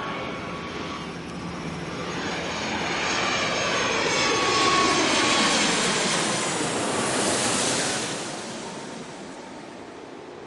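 Jet airliner engine noise passing by, swelling to a peak about halfway through and then fading, with sweeping tones through the noise. It is a dubbed aircraft sound, not the toy itself.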